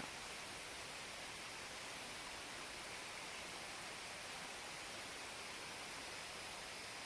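Steady, even hiss of flowing water from the Shirataki waterfall stream beside the shrine.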